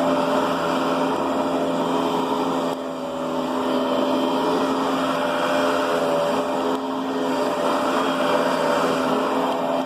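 Riccar Brilliance upright vacuum cleaner running with a steady motor whine, its level dipping briefly twice, about three seconds in and again near seven seconds.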